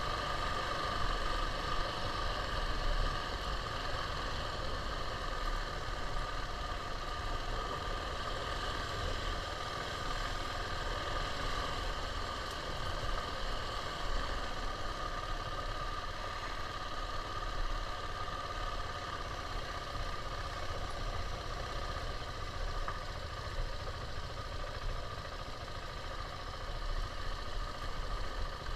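KTM 690's single-cylinder engine running at a fairly steady pitch, with a low rumble underneath.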